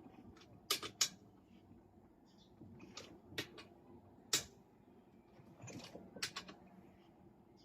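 Scattered sharp clicks and knocks of tools and parts being handled on a partly reassembled Ford 1.0 EcoBoost engine block, about seven separate strikes with pauses between them.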